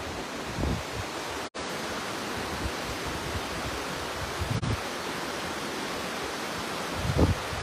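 A flood-swollen mountain river rushing, a dense steady roar of churning water, with a few low thuds under it. It breaks off for an instant twice, about a second and a half in and again about four and a half seconds in.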